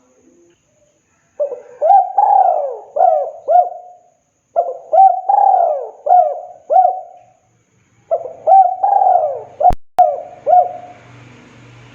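Spotted dove (tekukur) cooing: three phrases of repeated hooting coo notes, each phrase a run of five or six notes, with short pauses between them. A single sharp click sounds late in the third phrase.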